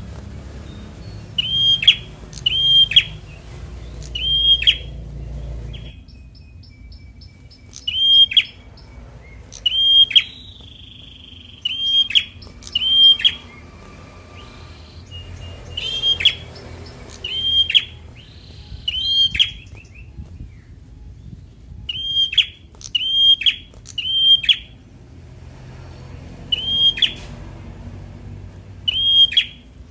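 A prenjak, a small Indonesian prinia or tailorbird, calling over and over with short, sharp, high notes, each dropping at its end. The notes come singly or in quick runs of two or three, a second or two apart.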